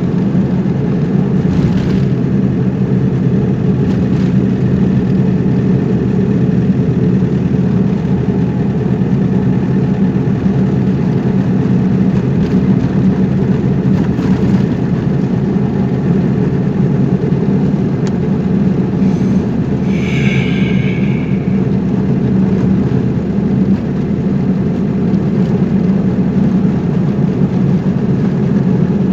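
Steady engine and road noise of a car being driven, an even low hum with no change in speed. About twenty seconds in, a brief high-pitched tone sounds over it.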